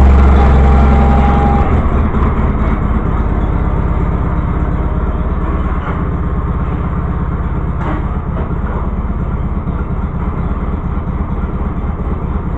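John Deere 318 garden tractor's two-cylinder Onan engine running just after a cold start on choke. It is very loud at first, drops and settles about two seconds in, then runs steadily.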